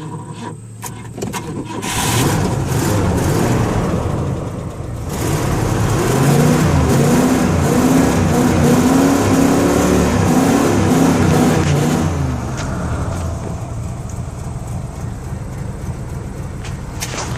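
1986 Oldsmobile Cutlass Supreme engine starting from cold. It fires about two seconds in and is revved up and down several times from about five to twelve seconds, then drops back to a steady idle.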